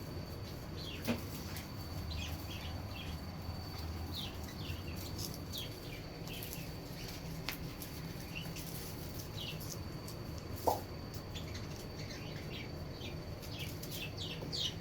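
Corgi puppies making many short, high-pitched squeaks and whimpers scattered throughout, with one brief, lower yip about two-thirds of the way in.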